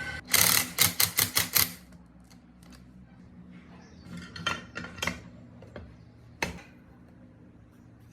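A quick run of about seven sharp knocks within the first two seconds, then scattered lighter taps and clicks, with single louder knocks about four and a half, five and six and a half seconds in.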